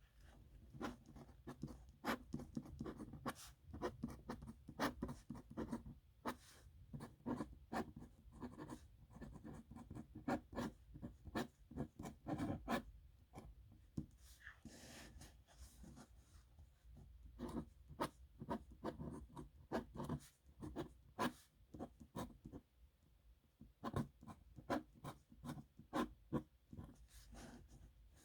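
Nib pen scratching across paper in quick handwriting strokes. The strokes come in short runs with brief pauses between them.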